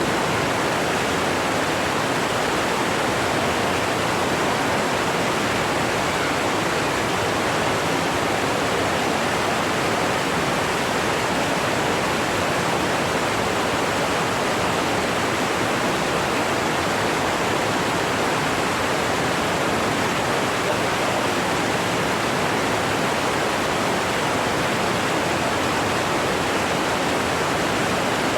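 Waterfall: water falling and rushing, a steady, even roar of noise with no breaks.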